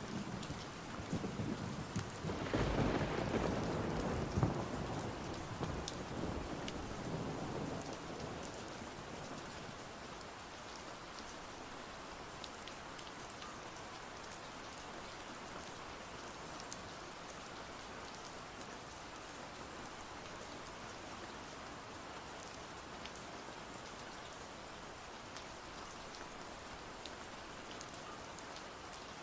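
Steady rain with a rolling rumble of thunder that swells about two and a half seconds in and dies away by about nine seconds, leaving the even hiss of the rain.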